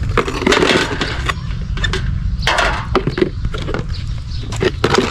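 Irregular scraping and crunching strokes, a quick uneven run of them, from fresh turmeric roots being worked by hand.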